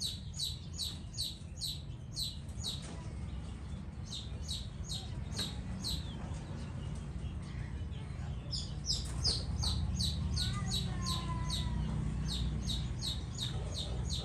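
A small bird chirping steadily: a rapid series of short, high, downward-sliding chirps, about three a second, pausing for a couple of seconds midway. Fainter lower bird calls come in briefly near the end.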